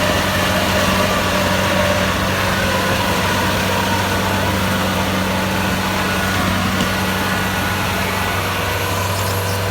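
Kubota DC-70 Plus rice combine harvester's diesel engine and threshing machinery running steadily with a constant low hum, cutting off suddenly at the end.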